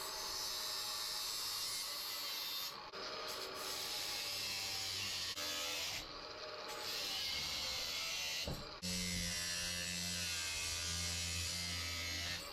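Power tool cutting thin steel pieces for a Damascus billet, a steady hiss that stops briefly between cuts, three times.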